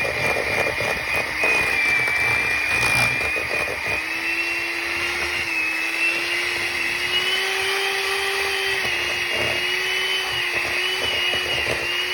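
Electric hand mixer running steadily with its beaters in a bowl of softened butter, with some knocking in the first few seconds; the motor's whine shifts slightly in pitch as it works.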